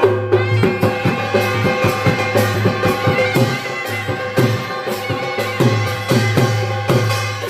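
Instrumental break in an Odia Danda devotional folk song: repeated drum strokes over a steady low drone and held melody notes, with no singing.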